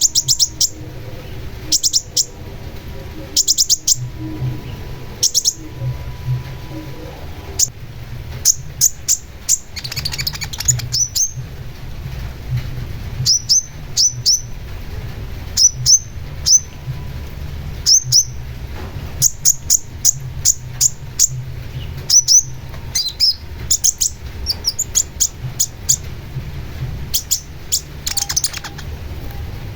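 Long-tailed shrike (cendet) singing: clusters of two to five sharp, high, quick notes repeated every second or two, over a steady low background hum.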